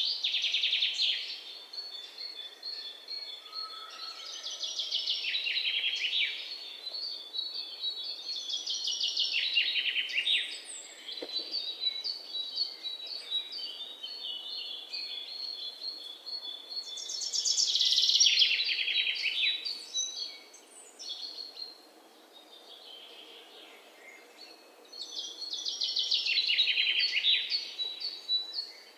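Birds chirping in bouts of fast, chattering trills that fall in pitch, about five bouts with quieter chirps between them.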